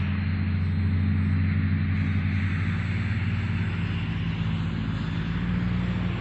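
An engine running steadily with a low, even hum and a hissing haze above it.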